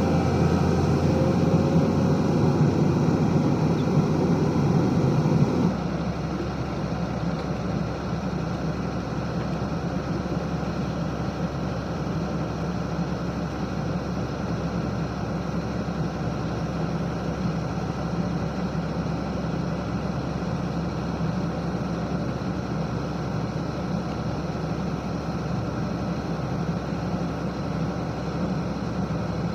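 Heavy diesel engine of earthmoving machinery running steadily with a deep drone. It is fuller and louder for the first six seconds, then drops suddenly to a quieter steady level.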